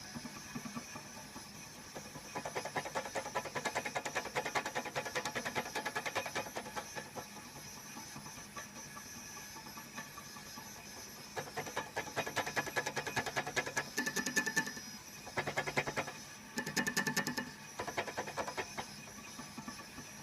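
Small stepper motors of a mini CNC plotter, built from DVD-drive laser sleds and a floppy-drive stepper, buzzing and whining in bursts of a few seconds as they step the pen through a drawing. A steady faint hiss runs underneath.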